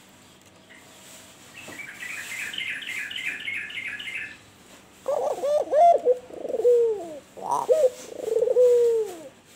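A rapid series of high, evenly repeated chirps from a small bird, then from about five seconds in an albino turtle dove (puter) cooing in a run of bending, gliding notes, louder than the chirps.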